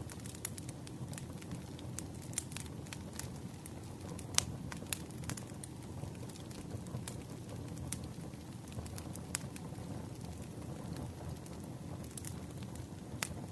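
Campfire burning: a steady low rumble of flames with irregular sharp crackles and pops of burning wood, a few louder pops scattered through.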